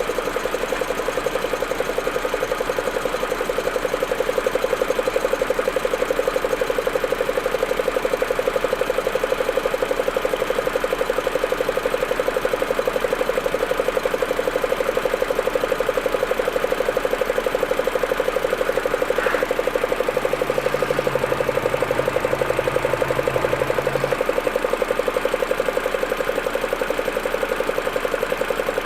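Audi A4 1.8T turbocharged four-cylinder engine idling with an even, rapid pulsing beat. It is the rough, stuttering cold idle that the owner is chasing, which clears once the engine warms up. A low hum comes in for a few seconds about twenty seconds in.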